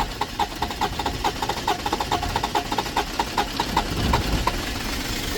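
BMW 530d's straight-six diesel being cranked by the starter after it stalled from overheating: a fast, even ticking that speeds up and stops about four and a half seconds in, over a low rumble that grows toward the end.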